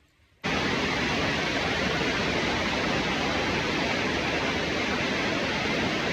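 Heavy rain falling steadily, cutting in suddenly about half a second in.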